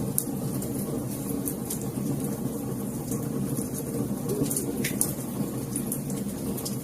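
Wood fire in a fireplace crackling: a steady low rumble of flames with scattered sharp pops, a few louder ones about five seconds in.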